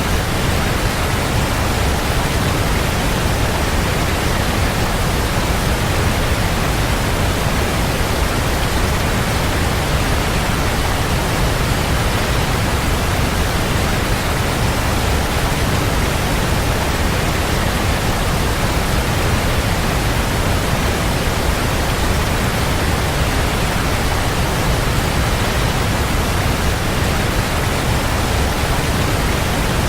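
Waterfall: a steady, dense rush of falling water, heaviest in the low rumble, with no breaks or changes.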